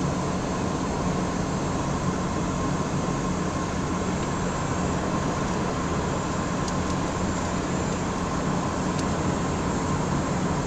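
Steady road noise inside a hotshot truck's cab while driving at highway speed: a low engine drone under the hiss of tyres and wind.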